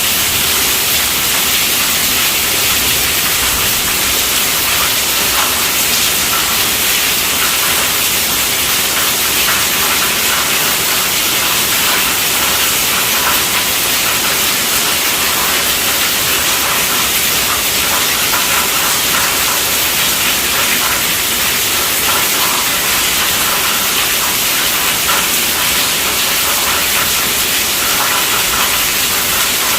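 Heavy rain falling on a tent roof: a loud, steady hiss of drops with no break or thunderclap.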